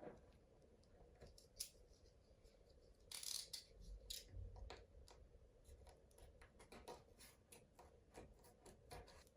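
Faint snips, clicks and rustling as 3M tape is cut and handled, with a short scraping rasp about three seconds in and a run of small clicks near the end.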